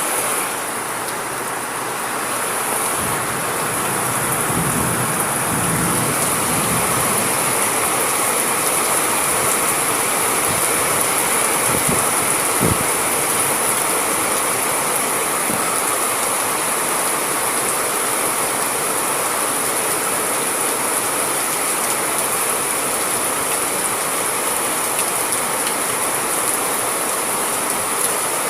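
Steady rainfall, an even hiss of rain, with a brief low rumble about four to six seconds in.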